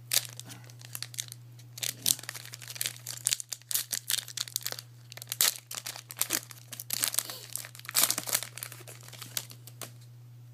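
Wrapper of a 2010 Panini Crown Royale basketball card pack being torn open and crinkled by hand: a run of short, sharp crackles. A steady low hum runs underneath.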